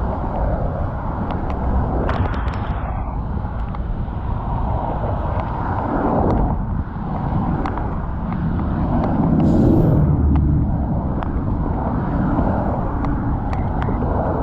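City street noise heard while riding a bicycle: a steady low rumble of traffic and moving air, with scattered light clicks and rattles.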